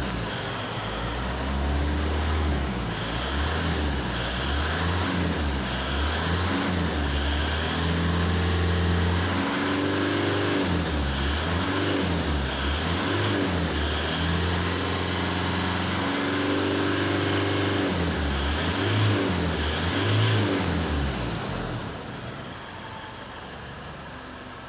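Isuzu D-Max 3.0 L turbo diesel engine running, its pitch rising and falling over and over as it is revved or driven, then settling to a quieter idle near the end.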